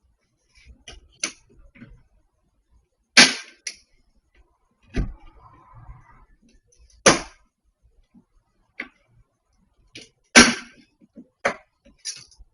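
A series of sharp knocks and clicks at irregular intervals, three of them much louder, about four and three seconds apart, with fainter clicks between.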